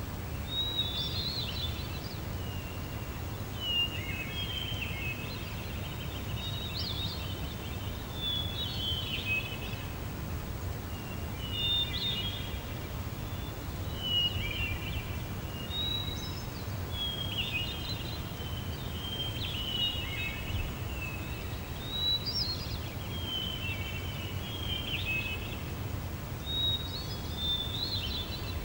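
A songbird singing short, quick chirping phrases, one every two to three seconds, over a steady low background rumble.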